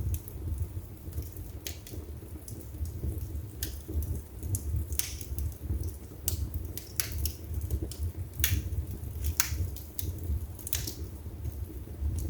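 Wood fire burning in a fireplace: irregular sharp crackles and pops from the logs over a low, steady rumble of the flames.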